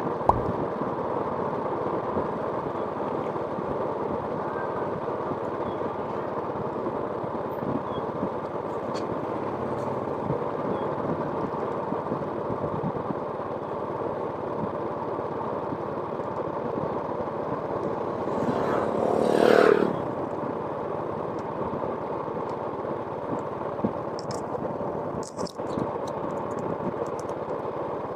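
Steady motor noise, with a louder vehicle passing close by about two-thirds of the way through.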